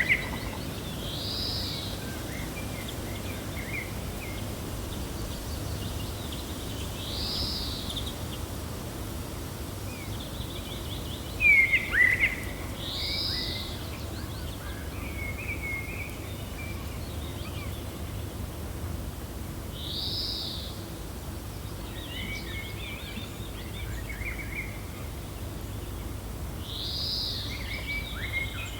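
Songbirds chirping over a gentle wind. One bird repeats the same short call about every six to seven seconds, between scattered smaller chirps, and a single louder, sharp chirp comes about twelve seconds in.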